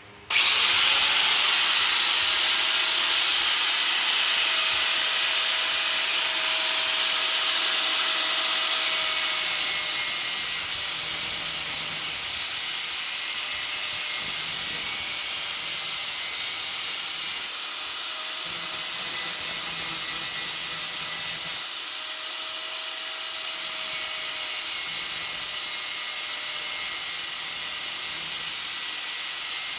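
Electric grinder starting up and grinding the edge of a steel repair panel, taking about a millimetre off. A steady, high-pitched grinding noise that eases off briefly a couple of times.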